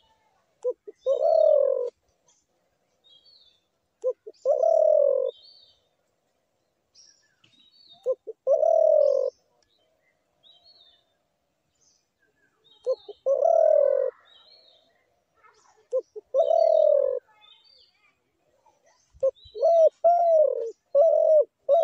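A dove cooing over and over: one or two short notes leading into a longer coo, about every three to four seconds, then a quicker run of coos near the end. Small birds chirp faintly in the background.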